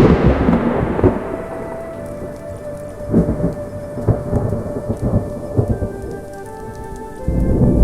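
Thunderstorm: a loud crack of thunder dies away into rolling low rumbles, with another swell of thunder near the end, over steady rain.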